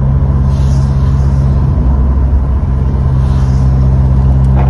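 Ford Sierra RS Cosworth's turbocharged 2.0-litre four-cylinder engine running at a steady cruise while driving, a constant low drone with road noise. A soft hiss swells briefly twice.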